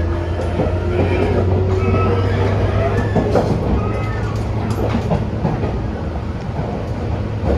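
Tobu 10000-series electric commuter train heard from inside the carriage while running: a steady low hum under wheel clicks over rail joints, with faint whining tones that slide in pitch.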